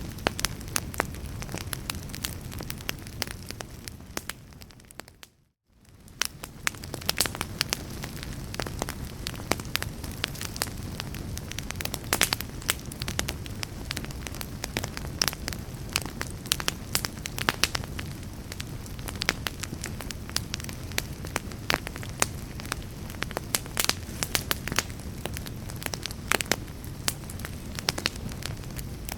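Wood fire crackling and popping in a fireplace, many sharp snaps over a steady low rumble. About five seconds in the sound fades out to near silence and fades back in within a second or so.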